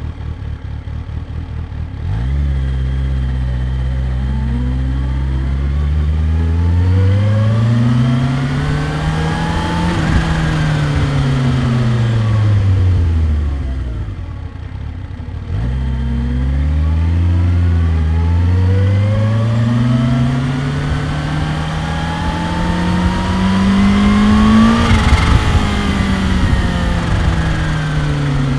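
Kawasaki Ninja H2's supercharged inline-four engine and exhaust, idling at first and pulling away about two seconds in. The engine note climbs for several seconds and then falls away as the bike slows, then climbs again to a higher peak near the end before easing off.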